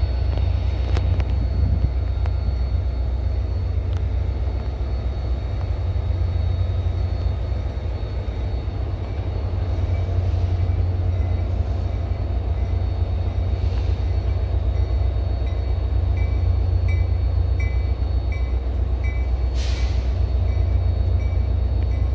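Commuter train of passenger coaches rolling slowly, with a steady low engine rumble. Near the end there is a run of short repeated beeps and two brief hisses.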